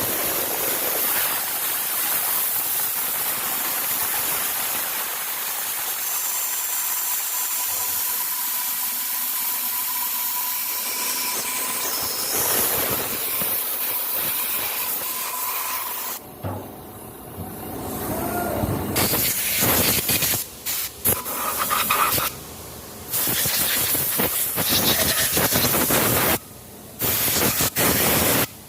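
A steady loud hiss for about the first sixteen seconds. After that it breaks into a series of louder noisy stretches that start and stop abruptly.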